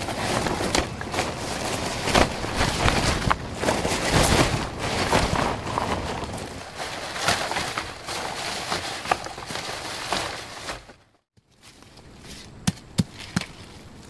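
Rustling and crackling of dry leaves and twigs being handled, with many small snaps. It cuts off abruptly after about eleven seconds, leaving a quieter stretch with a few sharp clicks.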